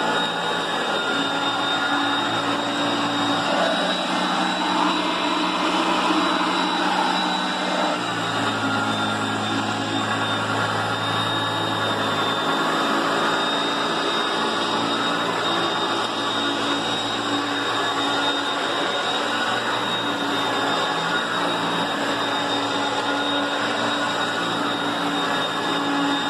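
Upright vacuum cleaner running steadily with a high motor whine; its low hum changes pitch for a few seconds between about 4 and 12 seconds in.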